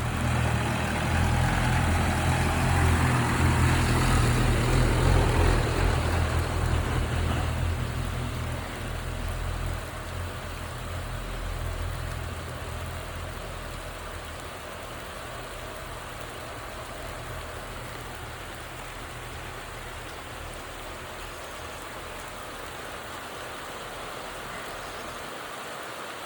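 Rain falling steadily as an even hiss. A loud low rumble fills the first several seconds and dies away by about halfway through, leaving only the rain.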